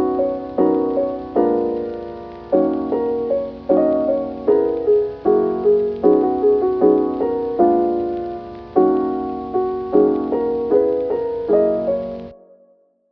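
Soft background piano music, gentle chords and melody struck in a steady rhythm, each note fading; it ends about twelve seconds in and gives way to silence.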